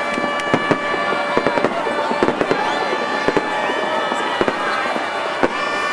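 Fireworks display: a rapid, unbroken run of sharp bangs and crackles, with a few short whistling glides among them.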